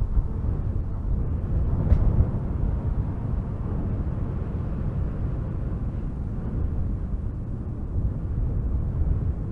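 Strong wind blowing through spruce trees: a steady, deep rush of noise that swells in gusts, with a brief sharp sound about two seconds in.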